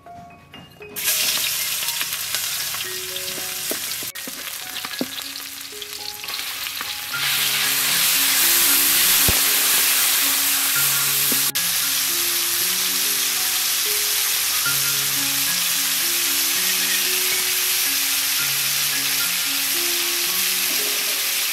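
Sliced meat with garlic and green onion sizzling in a hot steel wok as a metal spatula stirs it, with a few sharp scrapes and clicks. The sizzle starts about a second in and gets louder about seven seconds in. Soft background music plays underneath.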